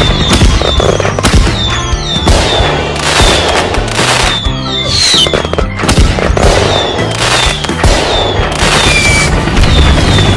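Rapid string of bangs and crashes with many short falling whistles, over background music, as in a toy-train crash montage.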